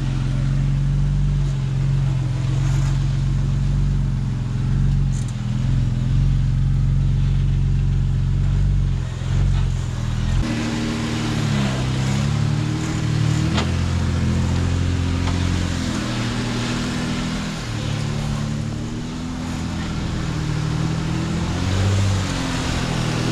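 Jeep Wrangler engine running at low speed on an off-road trail, holding a steady note for about ten seconds, then rising and falling in pitch with the throttle.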